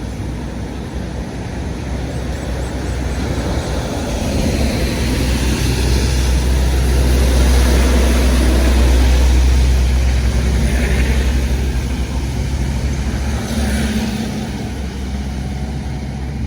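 Heavy road vehicle passing close by: a deep engine rumble swells to its loudest about halfway through, then fades.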